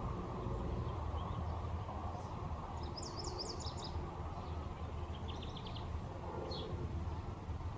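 Small wild birds chirping in short, quick, high-pitched twittering phrases, about three seconds in and again a couple of seconds later, over a steady low background rumble.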